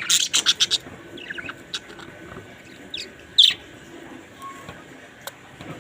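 Pet parrots calling: a quick run of short, shrill chirps in the first second, then scattered squawks, the loudest a little past three seconds in.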